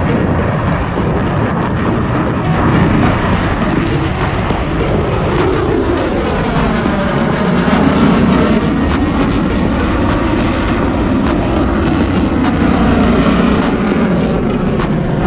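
Lockheed Martin F-22 Raptor's twin afterburning turbofan jet engines, loud and continuous through a demonstration pass, with a sweeping shift in tone about halfway through as the jet goes by.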